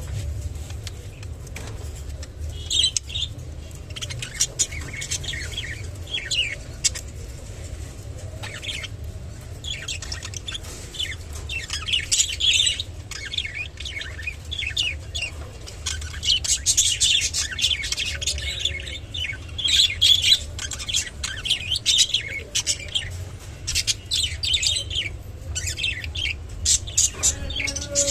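Budgerigars chirping and chattering: many short, high chirps in quick succession, busier in the second half, over a steady low hum.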